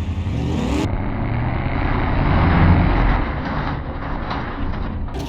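A road vehicle's engine running, its rumble growing louder to a peak about two and a half seconds in and then easing off.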